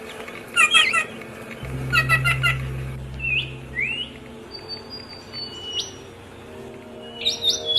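Songbirds chirping and whistling. There are quick clustered chirp phrases near the start and again about two seconds in, then single rising whistled notes and a fast run of chirps near the end, over a steady low hum.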